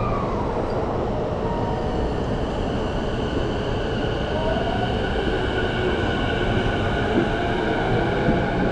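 Electric commuter train running: a steady rumble of wheels and rails with a faint high whine on top, and a low tone rising slightly about halfway through.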